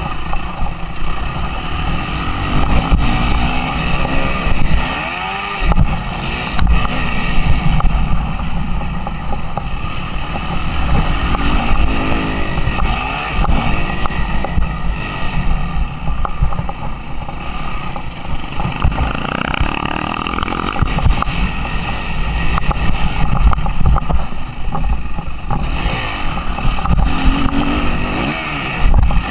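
Suzuki RM-Z 250 four-stroke single-cylinder motocross engine revving up and down as the bike is ridden, its pitch climbing and dropping again and again.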